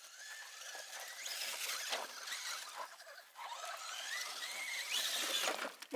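Electric motor and gearing of a radio-controlled mud truck whining under throttle, the pitch climbing as it speeds up several times, most clearly near the end.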